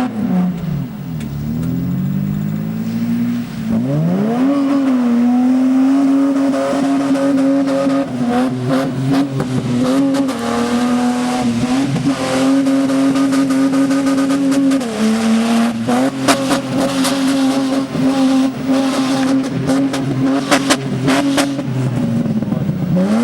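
Nissan Patrol VTC's 4.8-litre straight-six engine revved hard and held at high, steady revs for long stretches during a stunt drive on a wet car park. It climbs about three and a half seconds in, dips briefly around the middle, comes back up, and falls away at the end.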